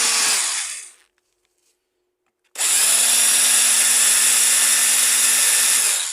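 Electric drill with a 1/8-inch bit drilling into the centre of a PC fan's plastic hub. It spins down in the first second, starts again abruptly about two and a half seconds in, runs steadily for about three and a half seconds, then spins down near the end.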